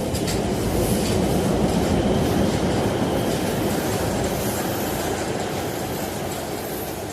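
Electric metro train running on its rails, a steady rumble with wheel noise that grows louder over the first couple of seconds and then slowly eases off.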